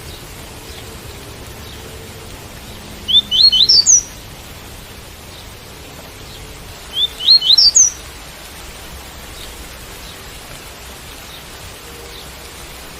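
Double-collared seedeater (coleiro) singing its tui-tui song: two short phrases of quick upslurred notes, each climbing in pitch, about four seconds apart. Steady rain hiss underneath.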